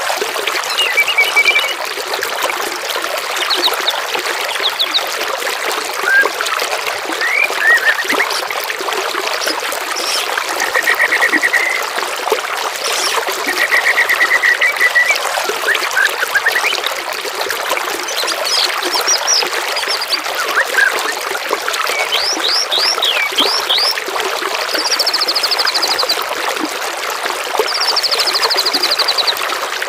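Songbirds singing short trills, chirps and rapid chip series, one phrase after another, over a steady trickle of running water. The bird phrases come thicker and higher toward the end.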